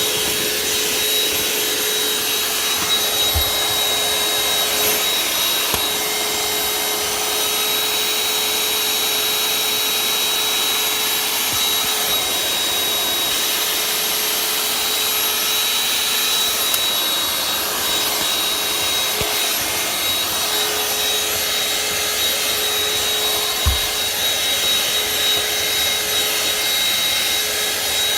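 Vacuum cleaner with a crevice tool running steadily on a car's interior, a constant rush of air with a steady whine over it. Two brief soft bumps, about three seconds in and near the end.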